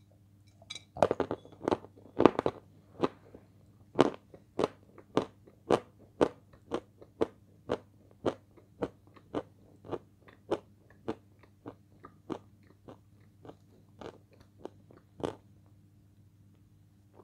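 Close-up eating sounds of a person biting into crisp food: a few loud crunching bites, then steady crunchy chewing at about two chews a second that gradually softens and stops near the end.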